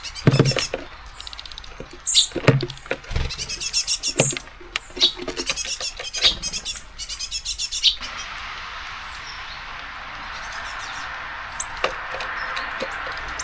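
Nuthatch and great tit feeding at a seed feeder: sharp pecks and taps on the seeds mixed with quick runs of high chirps. After about eight seconds the pecking stops and a steady hiss of rain carries on, with a few stray taps.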